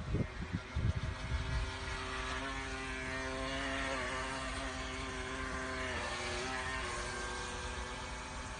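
Small electric motor of a toy remote-control speedboat running with a steady whine, its pitch dipping briefly partway through. Irregular low thumps come before the whine starts.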